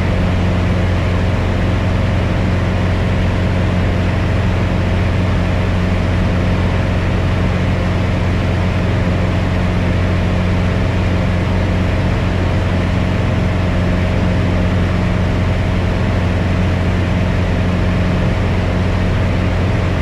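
Piper Cherokee 180's four-cylinder Lycoming O-360 engine and propeller running steadily at full power, heard inside the cabin as an even, low hum. The engine is new and in its break-in run.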